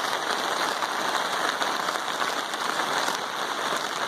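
Steady rain falling, an even, dense patter on surfaces.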